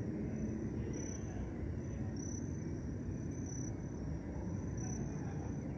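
Crickets chirping in short high pulses about once a second, over a steady low rumble.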